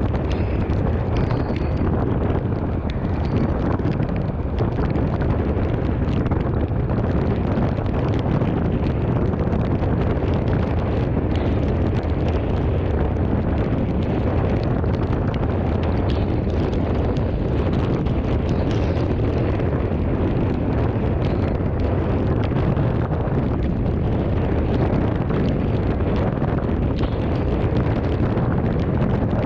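Strong thunderstorm wind blowing hard across the microphone: a steady, loud rush that stays even throughout.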